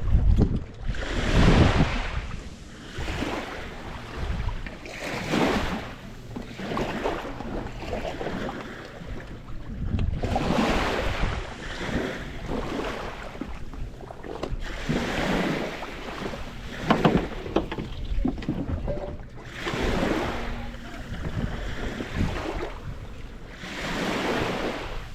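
Waves washing in repeated surges every few seconds, mixed with wind buffeting the microphone.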